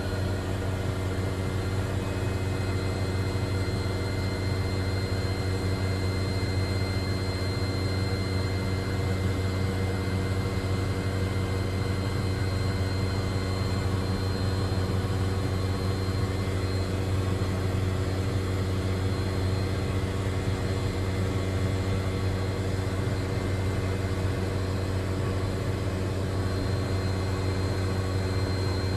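A steady mechanical drone: a strong low hum with several steady higher tones, unchanging throughout.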